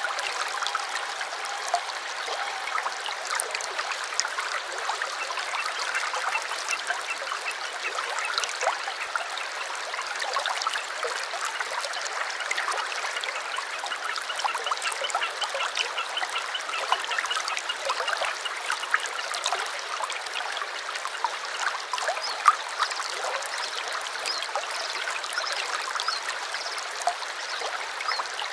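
A small stream trickling and babbling steadily, with wild birds chirping over it in short, high, repeated notes.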